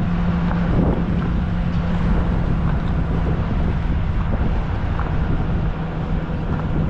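Vehicle driving along: steady engine and road noise with a continuous low hum, heard from on board.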